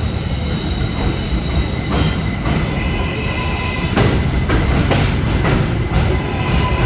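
R188 subway train moving along the track with a steady low rumble and a faint steady whine. Sharp clacks of the wheels over rail joints come more often after about four seconds.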